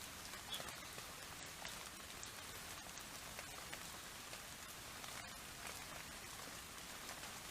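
Light rain pattering: a faint, steady hiss with scattered small drop ticks.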